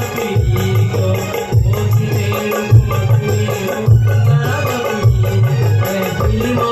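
Instrumental interlude of a Garhwali folk song played live: a heavy low drumbeat about once a second under hand percussion and a melody line.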